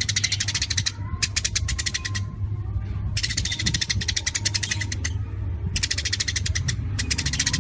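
Songbird singing a 'tembakan' song: rapid volleys of sharp, high, clicking notes at about ten a second, in four bursts of one to two seconds with short gaps between them. A steady low hum runs underneath.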